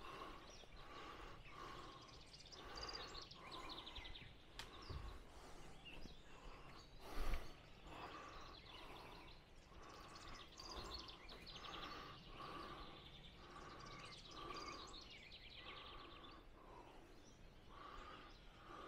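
Faint outdoor ambience with a bird repeating a short call over and over, and a single brief knock about seven seconds in.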